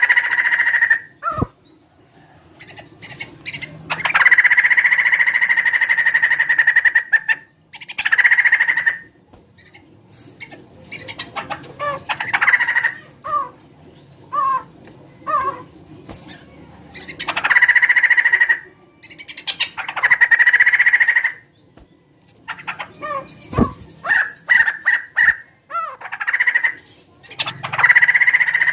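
Laughingthrush (poksay) calling: loud drawn-out calls lasting one to three seconds, repeated several times, with runs of short, falling notes between them.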